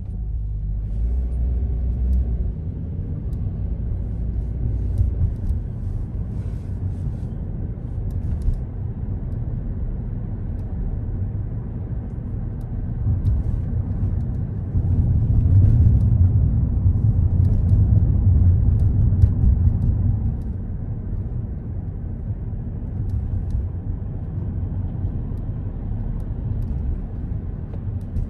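Car driving: a steady low rumble of road and engine noise, swelling louder for a few seconds in the middle.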